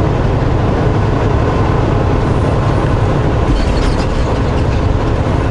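Semi truck cruising at highway speed on a wet road, heard inside the cab: a steady low engine drone with tyre and road noise.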